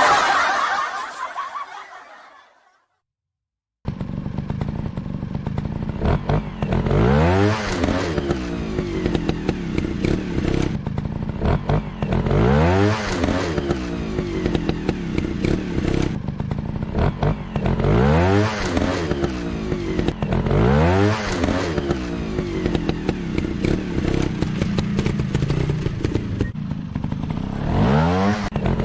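Motorcycle engine running and revving up and down over and over, about every three seconds. It cuts in suddenly about four seconds in, after a fading sound and a moment of silence.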